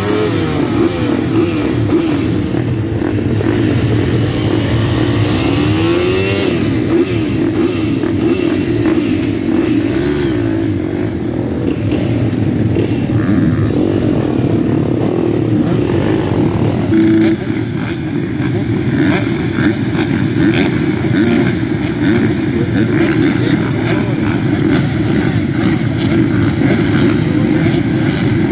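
Motocross motorcycle engines running hard, their pitch rising and falling again and again as the throttle is opened and closed.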